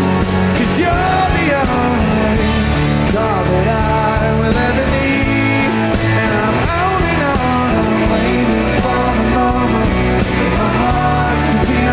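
Live rock band playing loudly, with bending melodic lines over a steady full-band backing.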